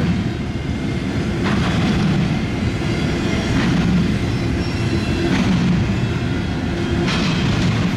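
Cars of a long intermodal freight train rolling past: a steady rumble of steel wheels on rail, with a sharper wheel clack about every two seconds.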